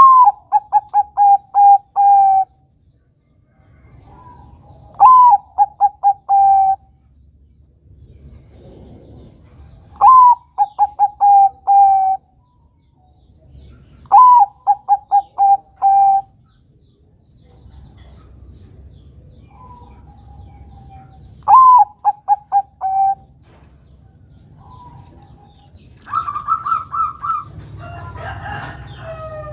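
Bangkok-type zebra dove (perkutut) singing: five phrases, each a sharp high opening note followed by a quick run of short coos, coming every four to five seconds. Near the end there is a different, higher and steadier call with a noisy stretch.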